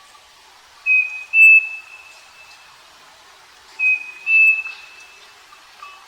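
Striped cuckoo (Tapera naevia) singing its two-note whistled song, the second note slightly higher and held longer, given twice about three seconds apart.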